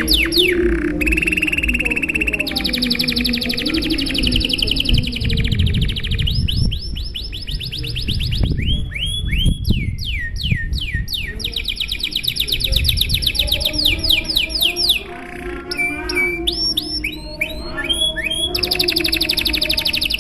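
Domestic canary in full song: a long, unbroken string of fast trills, each a rapid run of repeated falling notes that switches to a new note type every second or two.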